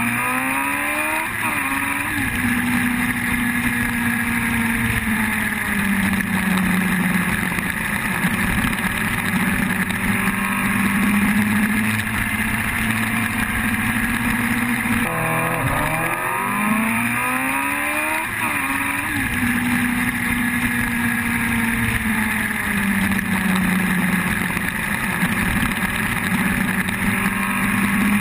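Yamaha R1 inline-four sport-bike engine running steadily as the bike circles. The revs climb quickly near the start and again about halfway through, and the pitch rises and falls slowly in between.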